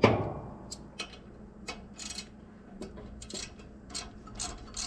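A metal knock, then a socket ratchet clicking as an exhaust manifold bolt is run in: scattered clicks at first, settling into a steady run of about three clicks a second near the end.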